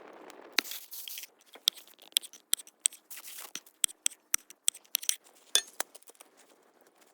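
Cookware and utensils being handled: a quick run of sharp clicks and clinks, with a couple of short scrapes.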